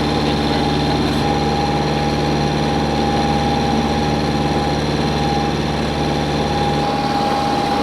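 A Catalina 30 sailboat's inboard engine running steadily under way, a constant drone with a thin steady whine above it.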